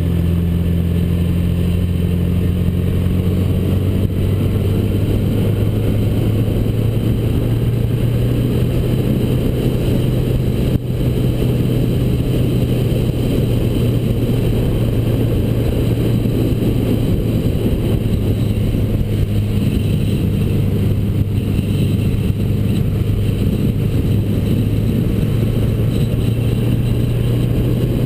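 1979 Honda GL1000 Gold Wing's flat-four engine running steadily at speed, with wind and road noise. The engine note steps up slightly about four seconds in.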